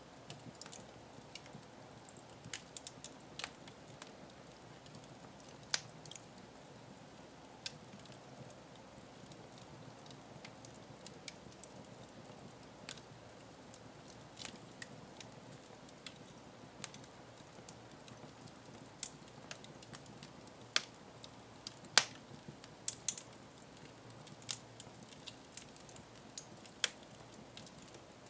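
Wood fire crackling in a fireplace: irregular sharp pops and snaps over a soft steady hiss, with a few louder pops a little past the middle.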